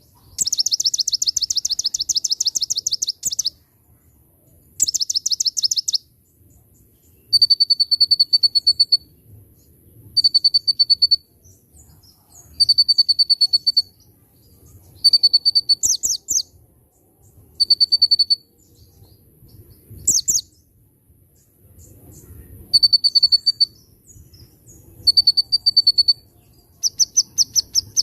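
Konin songbird singing: repeated short phrases of rapid, high-pitched trills, a new phrase every two to three seconds.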